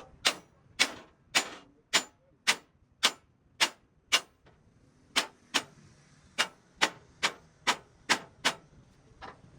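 Hammer blows on metal, struck in a steady rhythm of about two a second, with a short pause about halfway through.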